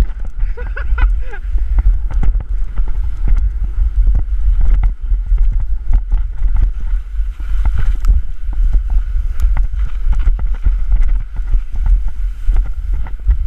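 Snow hissing and scraping under a person glissading down a steep snow slope, with many quick knocks and bumps and heavy wind buffeting the microphone. The tail of a whooping shout trails off in the first second or so.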